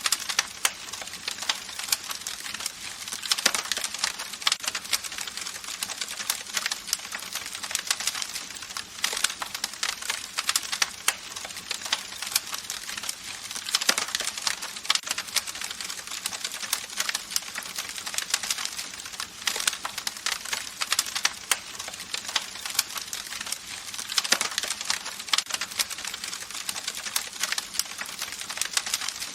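Campfire crackling: dense, irregular pops and snaps of burning wood over a steady hiss of flame.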